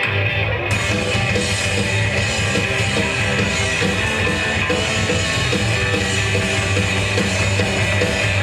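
Punk rock band playing live: electric guitar and bass, with the drums and cymbals coming in under a second in and the full band playing on.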